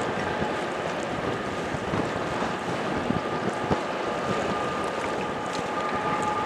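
Wind buffeting the microphone over the rush of water along the hull of a sailing yacht under way, with a faint steady whine coming in about halfway through.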